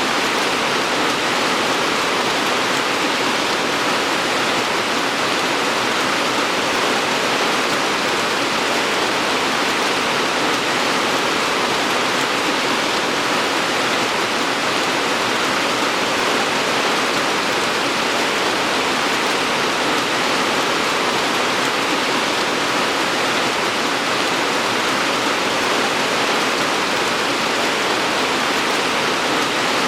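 Steady, even rainfall hiss with no separate drops or gusts standing out.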